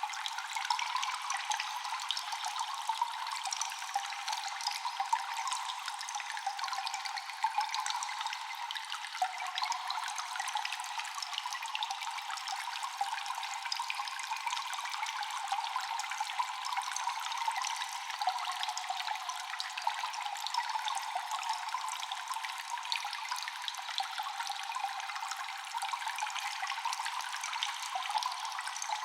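Cave ambience of constant dripping and trickling water, with many small drops echoing over a steady wash. It is thin and bright, with no low rumble, and does not change throughout.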